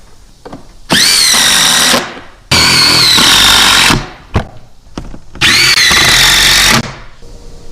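A power tool with a high motor whine, run in three bursts of about a second to a second and a half. The whine rises at the start of each burst and then holds steady. There are two short clicks between the second and third bursts.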